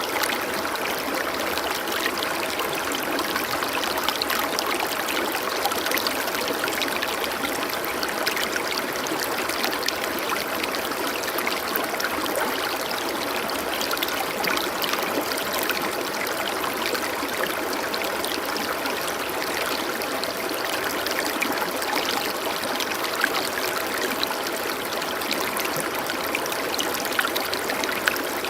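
Flowing stream water trickling and splashing over rocks, a steady rushing sound with small bright splashes throughout.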